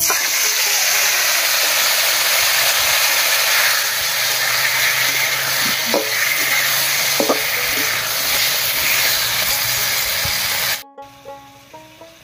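Turmeric-and-salt-coated pointed gourds dropped into hot mustard oil in a metal kadai, sizzling loudly as they fry. A spatula scrapes the pan a couple of times about six and seven seconds in. The sizzle stops suddenly near the end.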